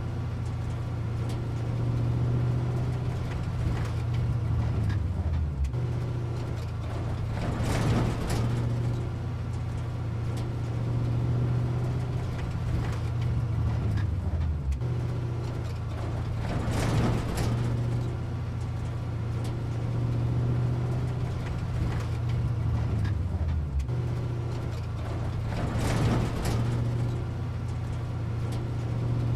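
Heavy-vehicle engine running steadily, with a short clatter and a dip in pitch that come back about every nine seconds, as in a looped engine sound.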